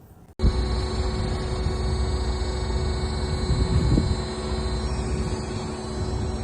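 A motor running steadily, a dense low rumble with several constant tones over it, cutting in abruptly just under half a second in.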